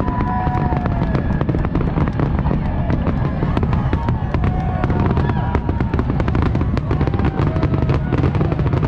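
Fireworks display going off continuously: a dense run of crackles and bangs over a steady low rumble.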